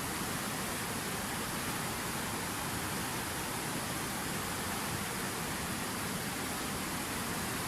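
Water from a fountain falling and splashing in a steady, unbroken rush.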